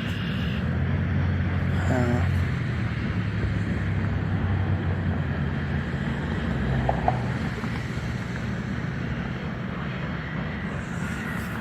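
Freight cars of a CN manifest train rolling past with a steady low rumble, wind buffeting the microphone. A brief high squeal about two seconds in.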